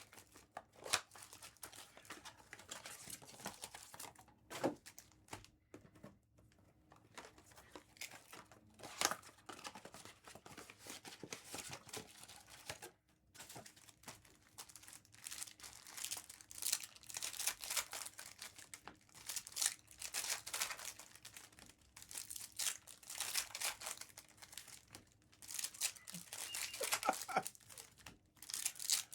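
Topps Chrome trading card packs being torn open and their wrappers crinkled and rustled by hand, in short irregular spells of tearing and crackling with brief pauses between.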